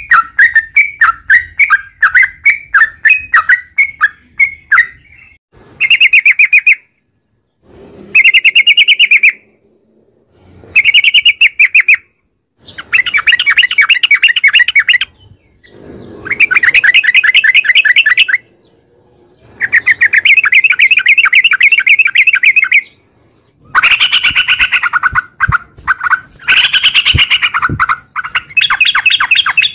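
Yellow-vented bulbul (trucukan) singing in fast rolling chatters, the 'ropel'. These come as loud bouts of one to three seconds separated by brief pauses.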